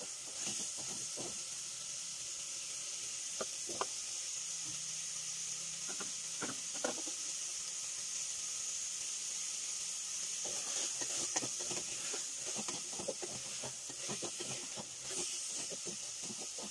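Chopped pork sizzling steadily in hot oil in an aluminium pot as it sautés. A wooden spatula scrapes and knocks against the pot in short strokes: a few a few seconds in, more around six seconds, and a busy run of stirring through the second half.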